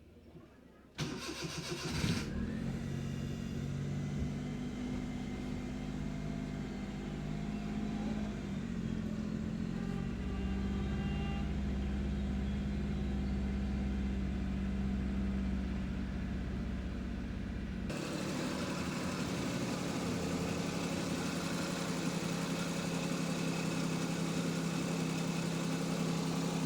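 Car engine cranked by the starter and catching about a second in, then idling steadily, its pitch dipping briefly about eight to ten seconds in. It is being run at idle with engine flush added to the old oil, to circulate it and clean the engine.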